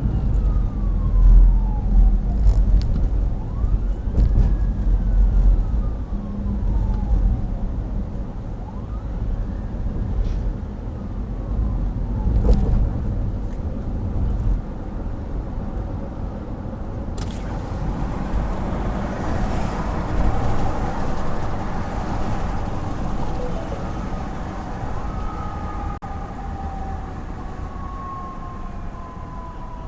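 Fire engine siren wailing in slow rising and falling sweeps over heavy engine and road rumble, the truck responding with lights and siren. The rumble eases and the whole sound slowly fades in the second half.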